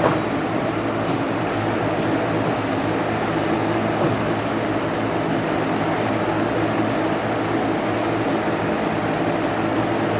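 Steady noise with a low hum underneath, unchanging throughout.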